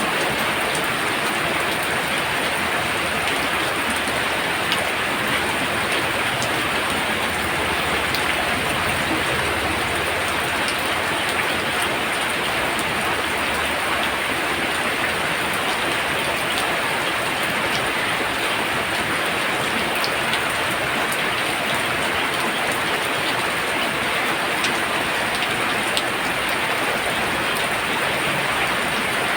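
Heavy rain pouring down steadily: a dense, even hiss, with scattered sharper ticks of drops striking a surface.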